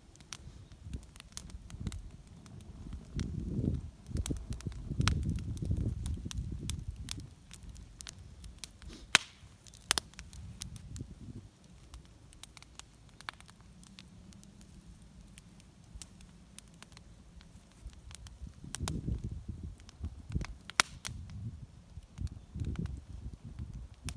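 Wood fire crackling and popping in a small homemade fire pit, with irregular sharp cracks and two louder pops about nine and ten seconds in. Low rumbling comes and goes over the crackle.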